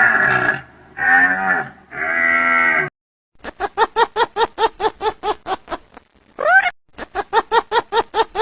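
Deer calling: three drawn-out calls in the first three seconds. After a short pause comes a fast series of short clipped calls, about five a second, broken once by a single rising call.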